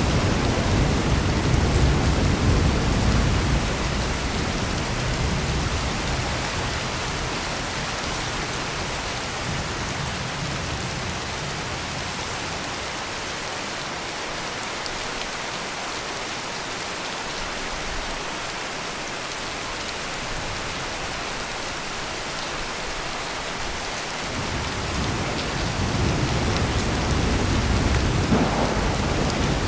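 Heavy rain pouring steadily, with low rolling thunder. A rumble at the start fades away over the first few seconds, and a new roll of thunder builds in the last few seconds.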